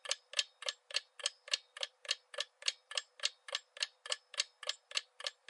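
Clock-ticking countdown sound effect, even ticks about three and a half a second, marking the guessing time.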